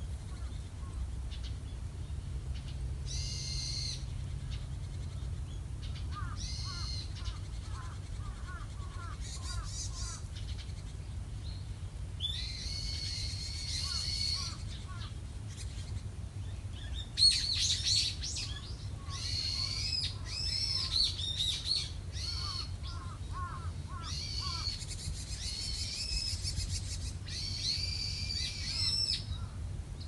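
Wild birds calling and singing in repeated phrases a second or two long with gaps between them, the loudest about halfway through, over a steady low rumble.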